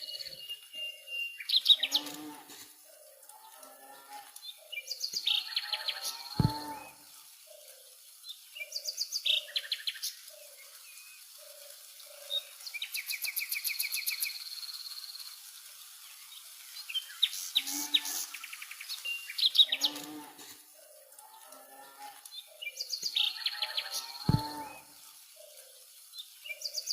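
Birds chirping and singing in short bursts of quick, high calls that return every few seconds, over a soft, regularly repeating lower call.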